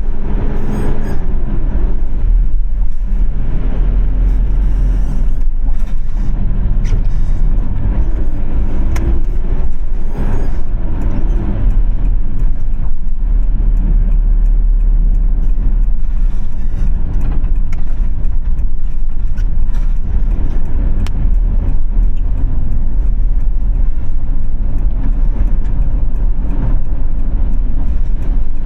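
Road traffic from a moving car: a steady heavy low rumble of engine and tyres, with the engine notes of nearby vehicles rising and falling a few times.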